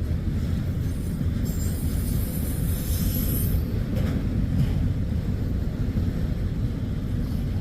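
Freight train cars rolling past, a steady heavy rumble of wheels on rail. A thin high-pitched squeal rises about a second and a half in and lasts about two seconds.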